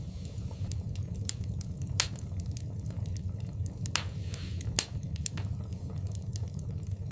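Wood fire burning in a fireplace: a steady low rumble of flames with irregular sharp crackles and pops, the loudest about two seconds in and near five seconds, and a brief hiss just after four seconds.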